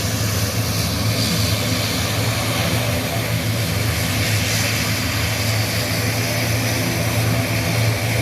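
Twin-turboprop military transport aircraft flying overhead: a steady, loud, low propeller drone with a hiss over it.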